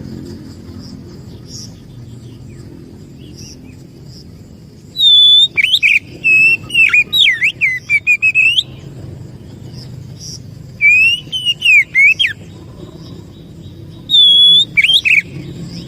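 Oriental magpie-robin singing loud, whistled phrases of rising and falling notes in four bursts with pauses between them, over a steady low hum.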